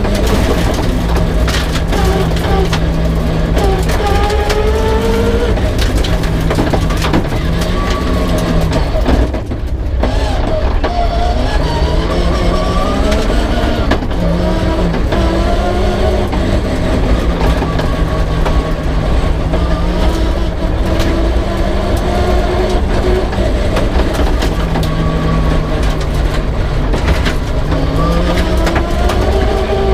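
Peugeot 306 rear-wheel-drive rally car's engine driven hard on a stage, its pitch climbing and dropping again and again through the gears, with a brief lift off the throttle about nine seconds in.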